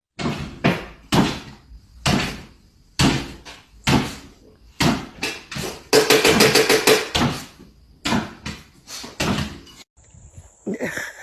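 A series of sharp knocks and bangs, irregularly spaced about half a second to a second apart, with a quick rattling flurry of hits about six seconds in.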